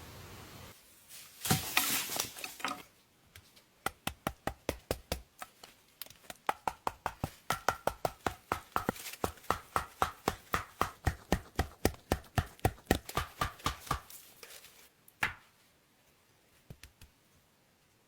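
A long run of steady, evenly spaced chopping strikes, about four a second, for some ten seconds, then a single strike and a few faint taps. A brief rustling burst comes just before the chopping starts.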